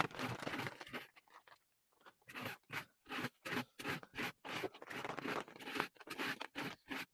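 Repeated scraping and crunching of muddy coop bedding being worked over: one longer scrape, a short pause, then short strokes about two or three a second.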